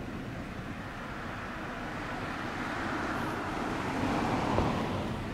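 Low rumble at a fireworks display between shell bursts. A rushing noise swells and fades over a few seconds, and a single sharp pop comes about four and a half seconds in.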